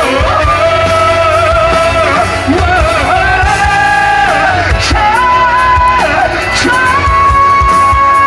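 Live rock band playing, with a voice singing a slow melody of long held notes over drums; the last note is held steadily through the final few seconds.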